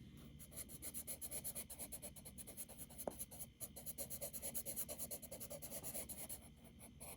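Charcoal scratching on paper in quick, even back-and-forth shading strokes, several a second, with one sharp tick about three seconds in. The strokes stop about six seconds in.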